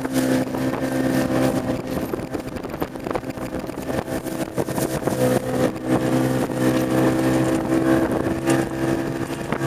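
Bass boat outboard motor running at speed, its engine note easing about three seconds in and picking back up about five seconds in, with the hull knocking across chop and wind rushing on the microphone.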